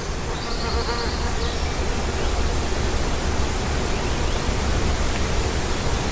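Steady rushing outdoor noise with a low rumble underneath, and a faint, high, rapid trill about half a second in.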